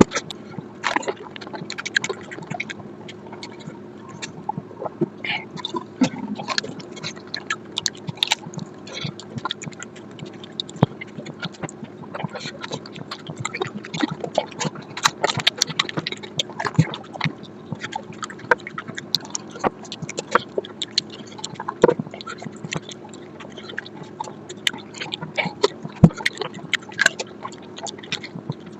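Close-up wet chewing and lip-smacking of someone eating mutton fat curry with rice, a dense, irregular run of sharp smacks and clicks over a faint steady hum.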